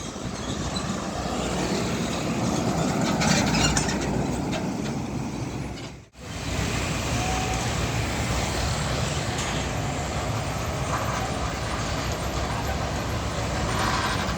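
Heavy trucks running past on a road with a steady diesel rumble and tyre noise. The sound cuts out briefly about six seconds in, then resumes.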